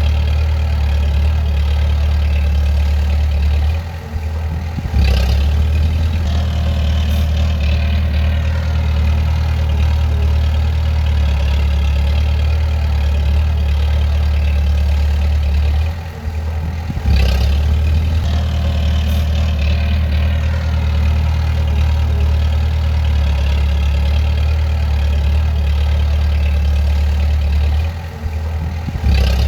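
Bulldozer's diesel engine running steadily. The sound drops briefly three times, about twelve seconds apart, and each dip ends in a short knock.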